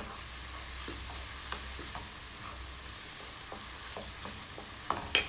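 Diced tomato, onion and garlic sizzling in a non-stick wok while a wooden spoon stirs them, scraping and tapping lightly against the pan. There are two louder knocks of the spoon near the end.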